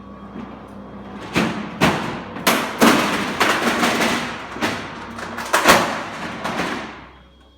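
Metal slats of a roller garage door clattering and knocking irregularly as the descending curtain comes down on a chair, buckling and coming apart from the roll; the clatter dies away near the end.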